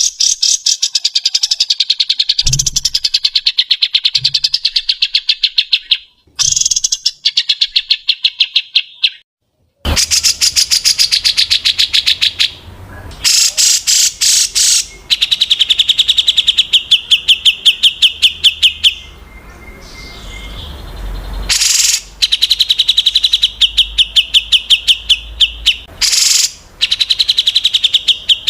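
Songbird song of rapid, evenly repeated high notes in runs of several seconds, broken by abrupt cuts and short gaps: an edited birdsong recording played as isian, a tutor song for training white-rumped shamas.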